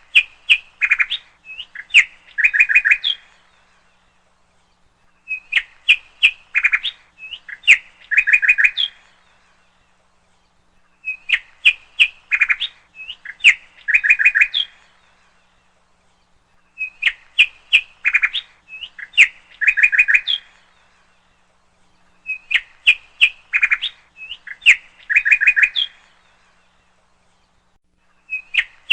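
A songbird singing the same phrase over and over: about three seconds of sharp chirps ending in a quick trill, repeated about every six seconds.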